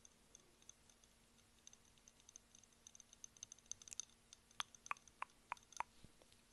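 Faint, close-miked wet mouth clicks: a rapid patter of tiny ticks, then a run of about six sharper clicks near the end.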